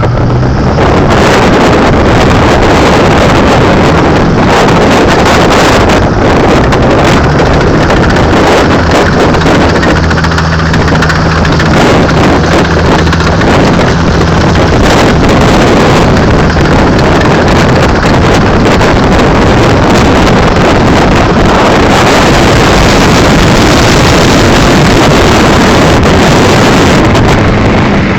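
Strong wind blowing over a swamp and buffeting the microphone: a loud, steady rushing noise.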